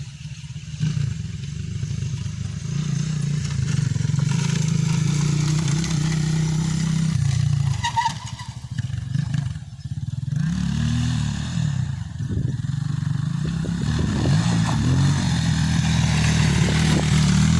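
Motocross dirt bike engine running and revving, its pitch rising and falling as the throttle opens and closes, with a brief lull about nine seconds in.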